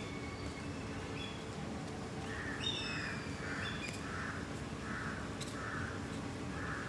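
Birds calling at dusk: short whistled chirps with falling pitch, then from about two seconds in a harsh, rasping call repeated roughly twice a second.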